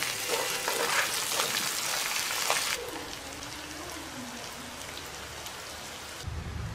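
Crab pieces and scallions sizzling in sauce in a wok, with spatula scrapes and taps as they are stirred. About three seconds in the sizzling cuts off abruptly to a much quieter hiss, and a low hum comes in near the end.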